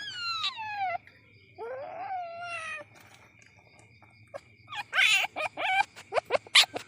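Young palm civet calling: a high cry falling in pitch at the start, a longer call in the middle, then a quick run of short cries near the end.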